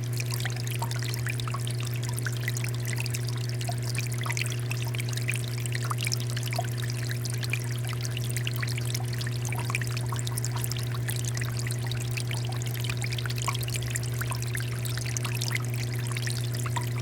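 Water fountain running: a steady stream of water pouring and trickling, with small drips and splashes throughout. A steady low hum sits underneath.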